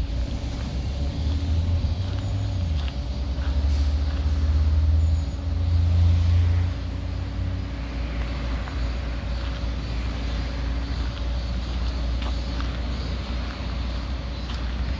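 Steady motor-vehicle traffic rumble with a low engine hum, swelling louder during the first half as a heavier vehicle passes.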